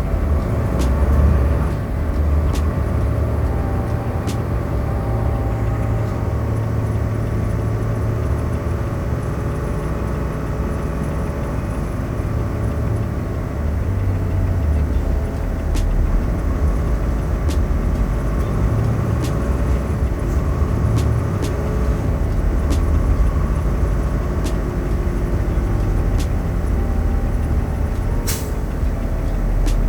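Truck running on the road: a steady low engine and road rumble with a few faint clicks scattered through it.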